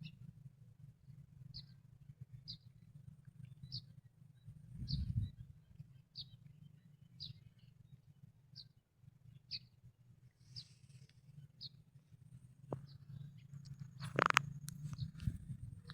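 A small bird chirping, short high notes repeating about once a second, over a steady low hum. A soft thud about five seconds in and a sharp knock near the end, the loudest sound.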